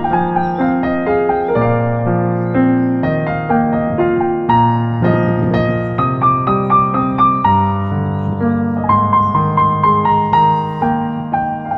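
Background piano music: a gentle melody of struck notes over held bass notes, at an even pace.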